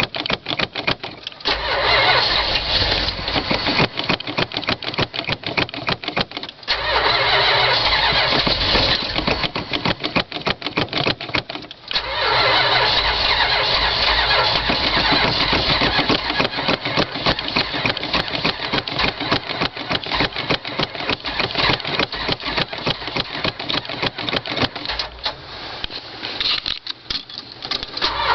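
Starter motor cranking the cold 1978 Dodge Ramcharger's 440 big-block V8 in long runs with short breaks, the engine sputtering at times but not catching. It is a cold start with no working choke, hard to start in the cold.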